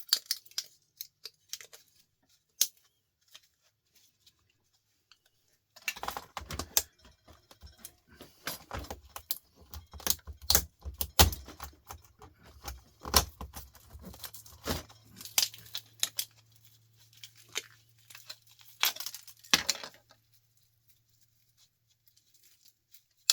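Small metal and plastic scrap parts clinking, rattling and knocking as an electrical fitting is taken apart by hand on a workbench, in an irregular clatter that starts about six seconds in and stops a few seconds before the end.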